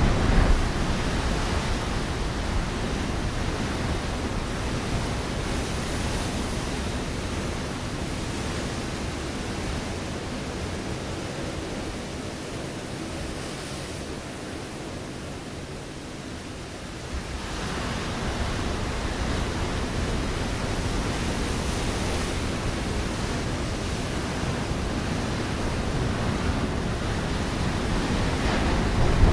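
Ocean waves breaking on a rocky shore, a continuous wash of surf. A wave crashes at the start and its wash slowly fades; a second wave surges in a little past halfway and builds toward the end.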